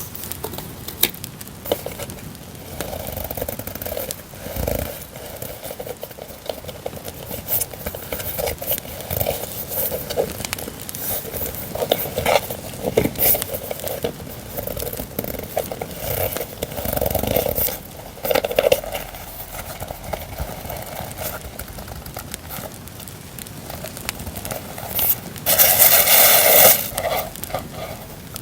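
Paper and packaging rustling, crinkling and scraping as journaling stickers and papers are handled, over a steady crackling campfire sound bed; a louder stretch of rustling comes about 25 seconds in.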